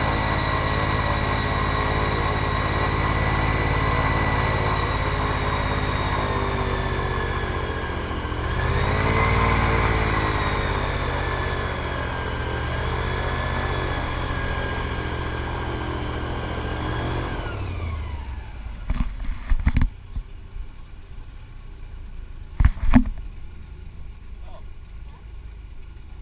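Airboat engine and propeller running steadily, briefly speeding up about a third of the way in, then winding down with falling pitch and cutting off about two-thirds of the way through. After it stops there are a few sharp knocks.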